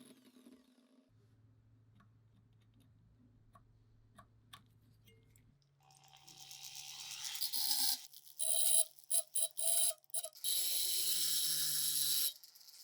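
A few faint clicks, then a hissing workshop power tool working on metal parts. It starts up gradually, cuts in and out rapidly in short bursts, then runs steadily and loud before stopping.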